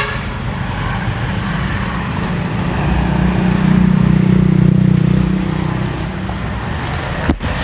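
Road traffic noise: a steady rumble with a motor vehicle's engine hum swelling and fading as it passes in the middle, broken by a brief cut near the end.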